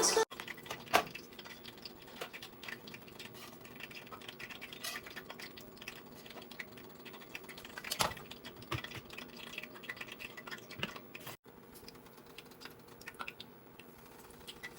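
Scattered light clicks and taps at an irregular pace, a sharper click about a second in and another about eight seconds in, over a faint steady hum.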